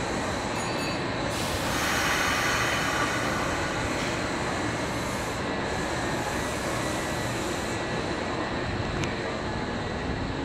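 Electric commuter train running at the station platform: a steady rumble and rail noise, with a louder hiss rising about a second and a half in and fading by about four seconds.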